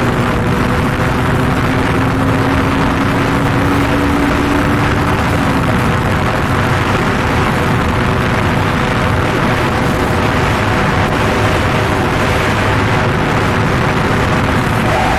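Motorcycle on the move: a steady engine note under loud, constant wind and road noise, with one engine tone climbing slowly over the first five seconds before it fades.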